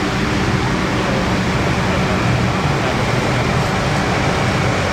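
Tractor engines running steadily, a continuous low engine drone.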